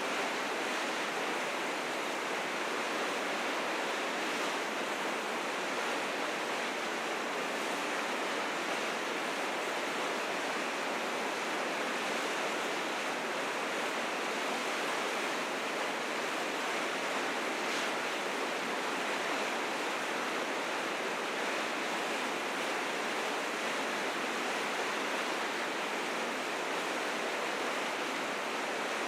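River rapids rushing steadily: fast, high spring meltwater pouring over rocks.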